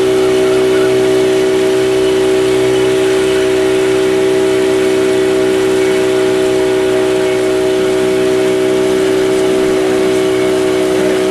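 Motorboat engine running at a steady, unchanging pitch, with constant tones over a hiss.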